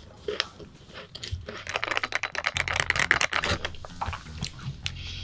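Close-up chewing of a bite of strawberry cream pastry: a dense run of quick crackly clicks and crunches, thickest through the middle.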